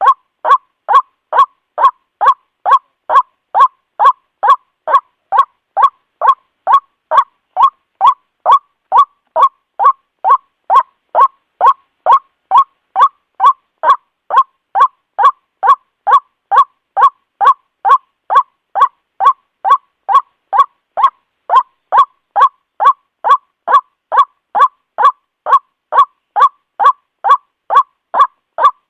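White-breasted waterhen calling, a long, even series of short, pitched notes at about two a second, each at the same loudness.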